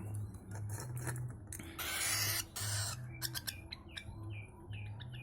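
Small toy cart clicking, scraping and rolling over the floor as a pet bird pushes it. Two short scraping rolls come about two seconds in, then a run of short high squeaks in the second half, over a steady low hum.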